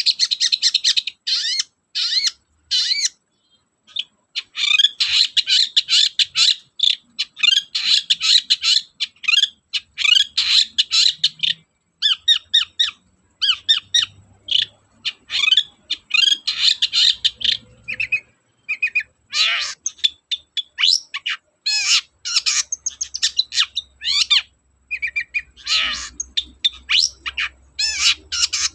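Long-tailed shrike (cendet) singing a fast, varied chattering song with harsh, scratchy notes, in bursts of a second or two separated by short pauses.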